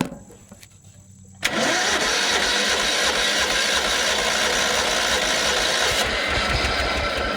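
Old Toro lawn tractor engine being started: about a second and a half in it abruptly comes to life and runs loudly and steadily, even with a muffler on.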